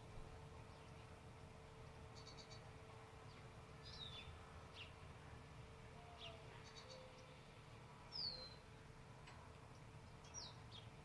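Small birds giving scattered short, high, down-slurred chirps, with a couple of quick rapid trills, over a faint steady low hum.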